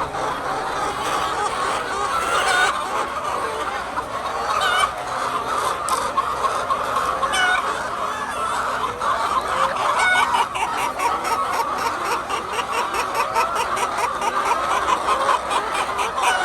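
A large flock of egg-laying hens clucking and calling over one another, a steady dense chatter. From about ten seconds in a fast, even clicking joins it.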